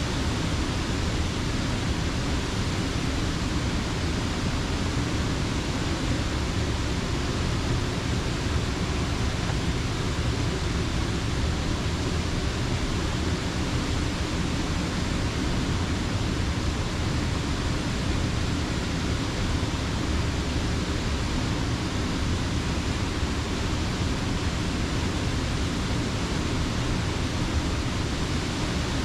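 Steady, unbroken rush of creek water pouring over a mill dam, full and deep.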